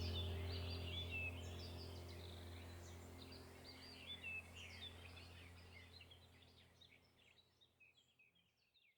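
Many small birds chirping and twittering in quick, high, gliding notes over a steady low hum. The whole sound fades out gradually to nothing by the end.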